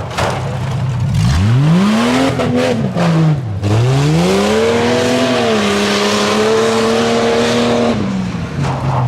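Tuff truck's engine revving hard, its pitch climbing and falling several times. It holds high revs for a couple of seconds before dropping off near the end.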